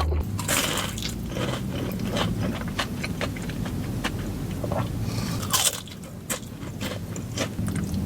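Close-miked biting and chewing of crispy fried hot chicken: a run of crunches from the breading, thinning out for a moment after about six seconds.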